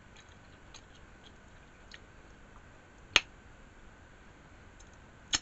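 A person chewing a mouthful of taco with the mouth closed: faint wet mouth clicks, and one sharp click about three seconds in.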